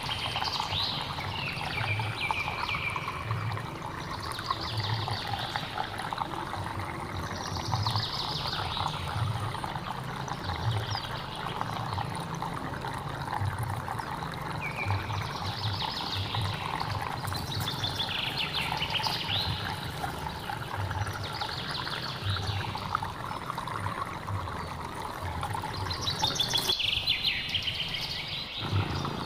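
Water flowing and trickling steadily in a hill stream, with birds calling over it every few seconds.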